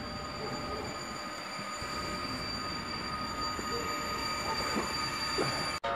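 PKP Intercity EU160 Griffin electric locomotive and its passenger train running slowly into the station: a low rail rumble under a steady high squeal of several held tones from wheels and brakes as it slows. The sound grows slightly louder as it nears and cuts out for an instant near the end.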